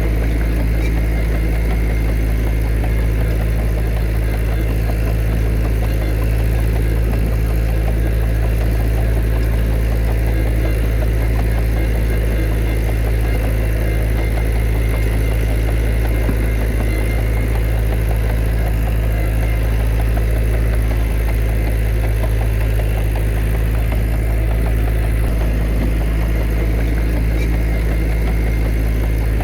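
Diesel engine of heavy earthmoving machinery running steadily at an even speed, with no revving.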